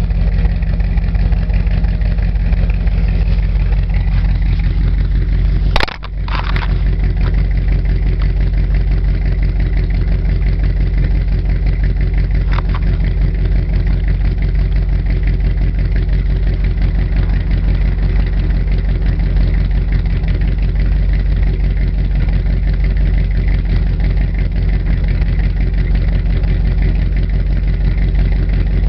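1986 Chevy K10's 350 V8 idling steadily through headers, glasspacks and dual exhaust, loud. A sharp click with a brief dip in the sound about six seconds in, and a fainter click about thirteen seconds in.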